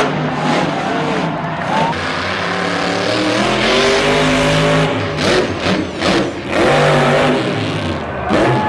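Monster truck engines revving hard, the pitch climbing and falling again and again.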